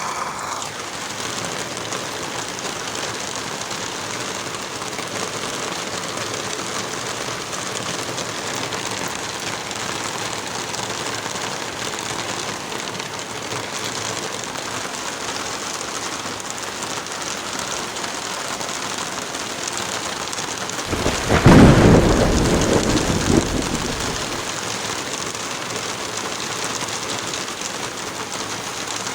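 Heavy rain falling steadily. About three-quarters of the way through, a loud crack of thunder breaks in and rumbles away over two or three seconds.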